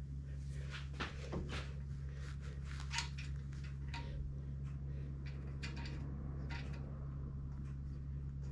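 Table saw rip fence being slid along its rail in a series of short scrapes and knocks, with one louder knock about three seconds in; the fence sits too low and drags on the table top. A steady low hum runs underneath.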